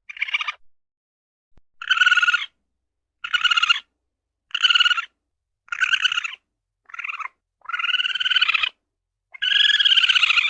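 An animal calling over and over: about eight short pitched calls, each half a second to a second long, with short gaps between them.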